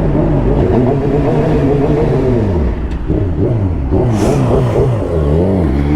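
Street motorcycle engine running under the rider, its pitch rising and falling several times with throttle and gear changes. A short hiss comes about four seconds in.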